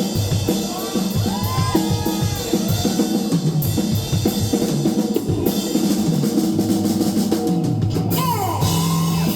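Live rock band playing an instrumental opening: a drum kit beating a steady rhythm on kick, snare and rimshots, under held bass and electric guitar notes, with a falling guitar slide near the end.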